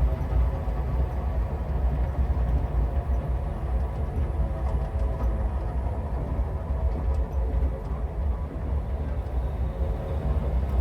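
A vehicle engine running steadily at low speed in a low gear, with a deep, even rumble.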